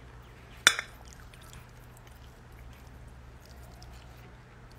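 A single sharp clink of dishware about a second in, then faint light taps over a steady low hum.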